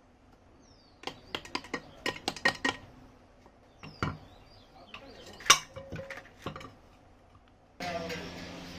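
Small metal parts clinking and tapping together in quick runs of sharp clicks. Near the end a steady machine noise starts.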